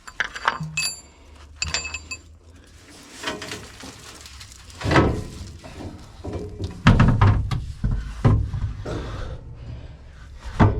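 Metal clinks and a series of knocks and thuds from hands-on work with tools and parts: two short ringing clinks about a second and two seconds in, then heavier thuds further on, the loudest near the end.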